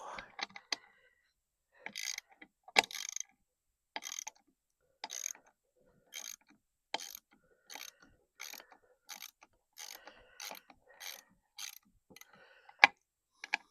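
Socket ratchet wrench clicking in short repeated strokes, about two a second, working a bolt loose. A single sharp clack comes about a second before the end.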